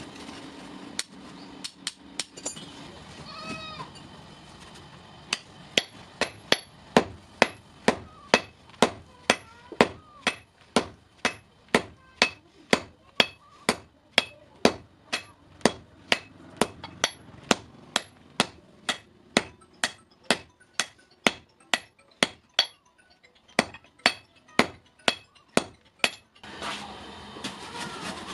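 Hand hammer striking hot steel on an anvil while forging a hasua blade: a few scattered blows, then a steady run of ringing strikes at about two a second that stops near the end.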